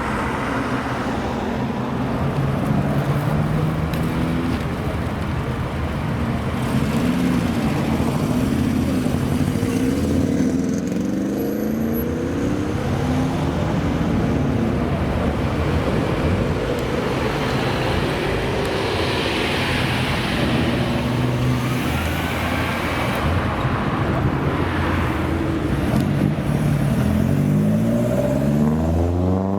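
Car engine revving and accelerating, its pitch rising and falling several times, with a long climbing rise near the end.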